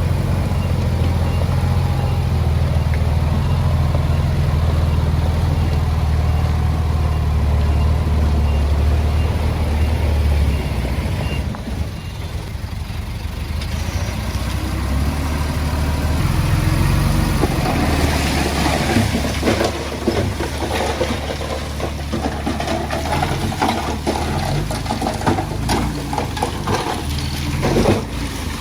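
Heavy diesel engine of earthmoving equipment running steadily, its pitch changing about twelve seconds in. From about eighteen seconds on it is joined by repeated clattering and clanking.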